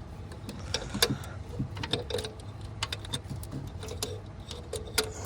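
Hand tools clicking and clinking against metal parts, a string of irregular taps with a sharper knock about a second in and another near the end.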